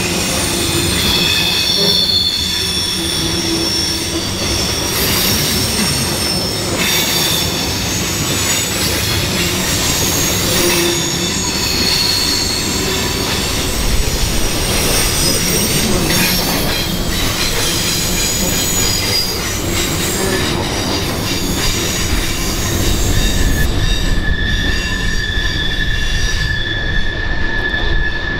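Norfolk Southern intermodal freight train rolling past, its steel wheels squealing on the rails over a steady rumble. Several high squeals come and go together; near the end they settle into one steady squeal while the low rumble grows louder.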